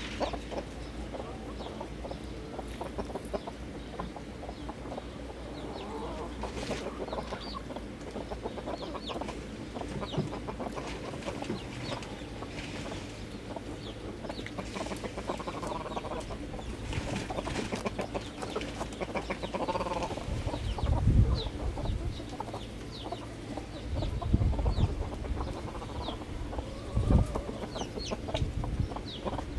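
Chickens clucking softly and intermittently while feeding, over many small scattered clicks. A few low thuds come in the last third.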